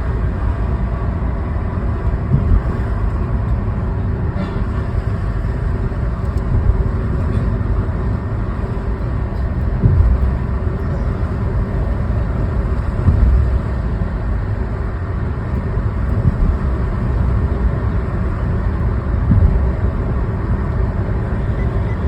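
Car driving on city roads: a steady low rumble of engine and tyre noise, with a few short low thumps.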